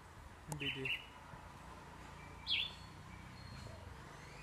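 A bird calling: short whistled notes that sweep sharply downward, heard twice, about half a second in and again about two and a half seconds in.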